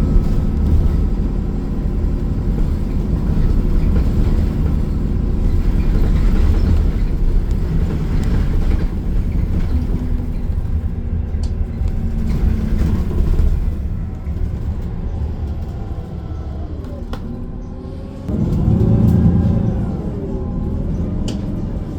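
City bus running on the road, heard from inside the cabin: a steady low engine and road rumble that eases off about two-thirds of the way through, then swells suddenly louder with a shifting engine whine near the end.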